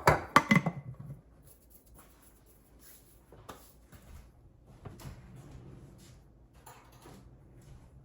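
Kitchenware clattering: a quick run of sharp knocks in the first second, then faint scattered clicks and taps.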